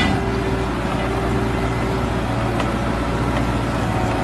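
Heavy machine working a hydraulic stump-twisting auger, its engine running steadily with a low hum.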